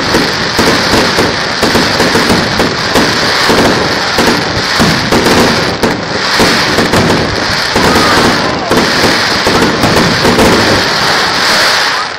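Aerial fireworks bursting in a dense, continuous run of crackles and pops, dying away at the very end.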